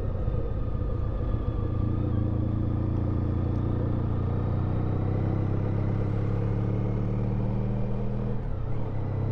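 Honda ST1300 Pan European's V4 engine running under way, heard from on board the motorcycle with road and wind noise. The engine note holds steady, then drops about eight and a half seconds in.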